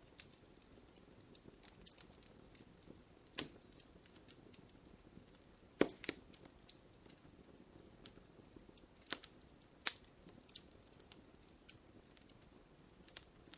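Wood fire crackling in a fireplace: scattered sharp pops and small ticks over a faint low hiss, the loudest pops about six and ten seconds in.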